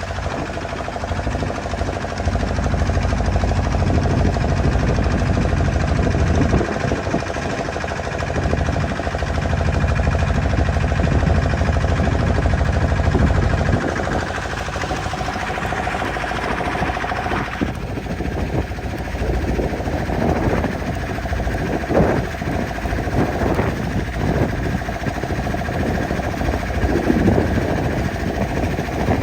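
A boat's engine running steadily under way, with a low rumble that eases about halfway through.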